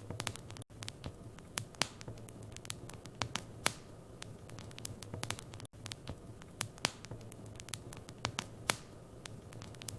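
Wood fire crackling in a fireplace: irregular sharp pops and snaps over a low steady hum, with a brief dropout twice.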